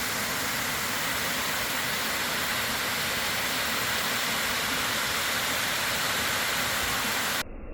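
A steady rushing hiss with no distinct tones, which cuts off suddenly near the end.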